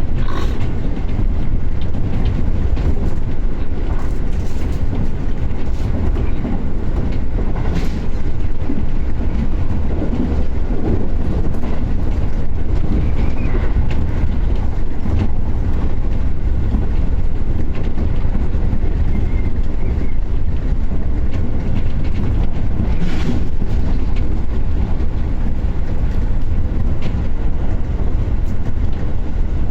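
Seibu Shinjuku Line commuter train running, heard from inside the carriage: a steady low rumble of the wheels on the track with a few light clicks over the rail joints.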